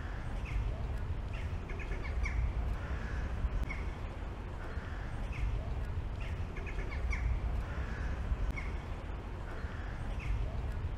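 Birds calling again and again in short calls, over a steady low rumble.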